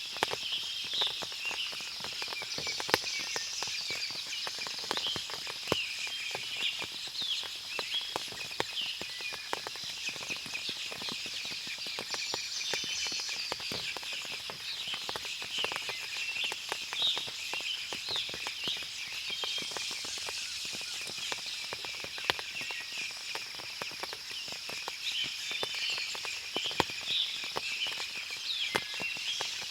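Forest ambience after rain: many birds chirp and call over a steady high-pitched insect drone. Scattered sharp ticks of water drip from the wet leaves.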